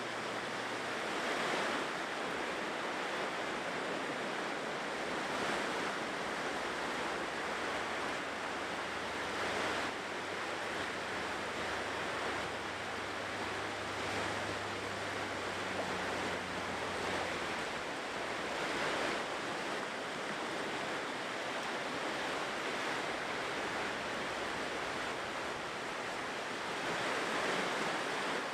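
Ocean surf washing onto a shore: a steady rush of waves that swells and eases every four to five seconds.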